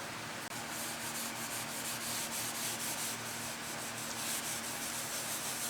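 Paste wax being rubbed by hand onto the planer's cast-iron table: a steady rubbing with repeated back-and-forth strokes.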